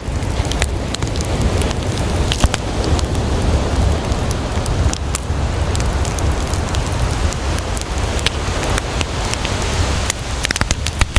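Wood campfire crackling with many sharp pops, a dense run of them near the end, over a steady wash of sea waves.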